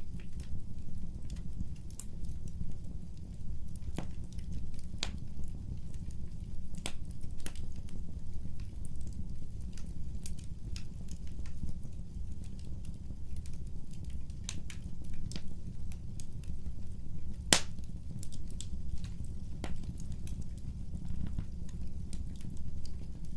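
Wood fire burning: a steady low rumble with irregular sharp crackles and pops, one pop about three-quarters of the way through louder than the rest.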